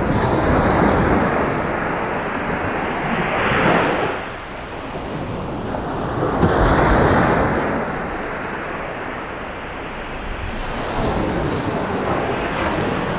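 Sea surf breaking and washing up a beach, the rush swelling and falling away every few seconds, with a low rumble of wind buffeting the microphone.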